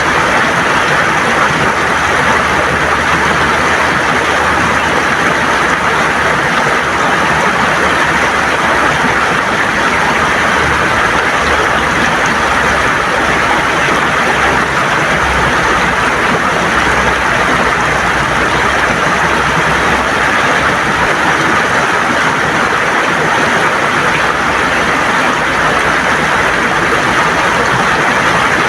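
River water gurgling and rushing over stones, a steady, unbroken noise.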